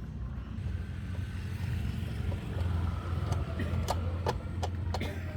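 An engine running steadily with a low hum, with a run of sharp clicks or knocks in the second half.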